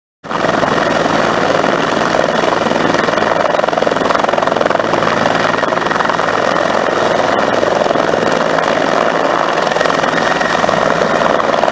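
Helicopter rotor and engine noise, running steadily after starting abruptly about a quarter second in.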